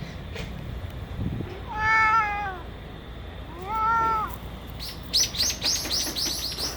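A cat meowing twice, two drawn-out meows about two seconds apart. Near the end comes a rapid run of short high chirps, about six or seven a second.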